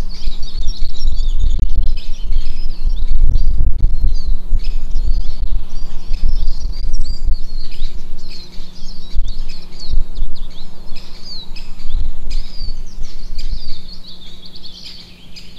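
Small songbirds chirping and twittering continuously, in quick short notes and slides, over a loud irregular low rumble with thumps and a steady low hum; the rumble falls away near the end.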